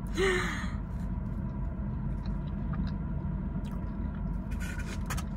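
A person chewing and biting breaded food, with faint small crackles and mouth clicks, over a steady low hum in the car cabin. A brief vocal sound comes at the very start.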